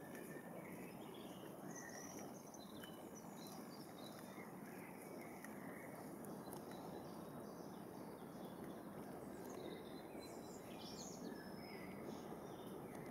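Faint birdsong: several short chirps and phrases from small birds, scattered throughout, over a steady low hiss of background noise.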